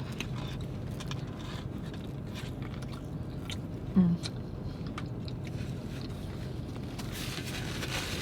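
Close-up chewing of fast food, with small wet mouth clicks and bites. There is a brief hummed vocal sound about four seconds in, and a rustle near the end, over a steady low hum.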